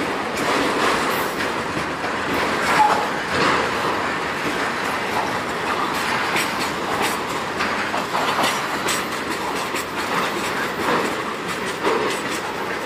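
Freight train's autorack cars rolling past on the rails, with steady rumble and irregular wheel clicks and clunks. A brief metallic squeal comes about three seconds in.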